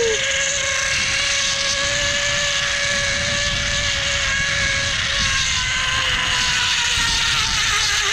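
Zip-line trolley pulleys running along the steel cable: a steady whine over a low rumble, dropping slightly in pitch near the end.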